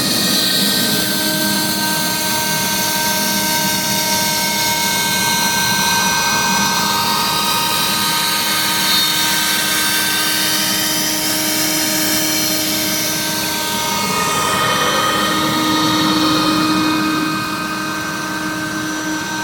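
CNC router spindle running at speed and cutting aluminum composite panel: a steady high whine of several tones over a hiss of cutting noise, easing off slightly near the end.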